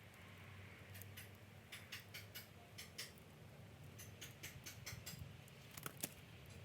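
Wood campfire crackling faintly, with scattered irregular sharp pops and ticks, the loudest about six seconds in.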